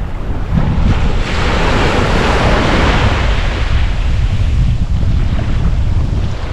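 Ocean surf on a beach: a wave washes in, swelling about a second in and fading away after a few seconds, over a steady low rumble of wind buffeting the microphone.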